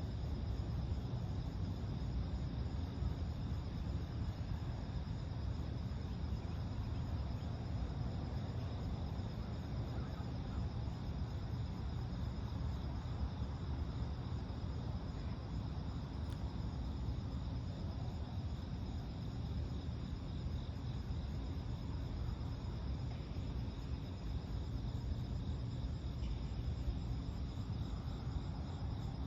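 Steady chorus of crickets chirping, a high, finely pulsing trill that holds unchanged, over a constant low rumble that is the loudest part of the sound.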